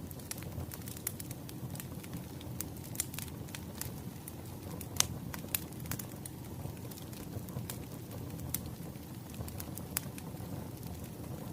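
Wood fire crackling: a steady low rumble of burning logs with frequent sharp pops and snaps, one louder pop about five seconds in.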